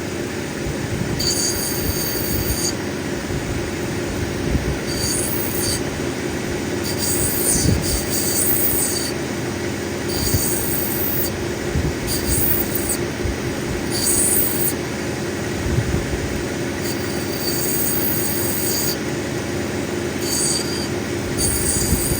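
Cabbing machine running with water on the wheel, and a high-pitched grinding squeal each time the black opal is pressed against the grinding wheel. The squeal comes in repeated strokes of one to two seconds, about every two to three seconds.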